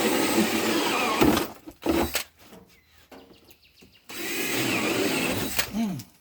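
Cordless drill boring holes, run in two bursts with a few knocks between; each time the trigger is released the motor winds down with a falling pitch. The drill's battery is running low.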